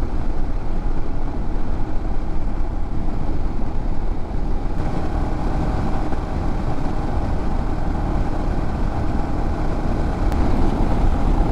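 Royal Enfield Himalayan motorcycle running steadily at road speed: a constant engine drone mixed with a heavy low rumble of wind and road noise.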